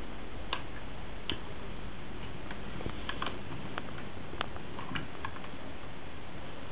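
Light plastic clicks and taps from a Lego toy truck being handled and worked, about a dozen at irregular intervals over a steady background hiss.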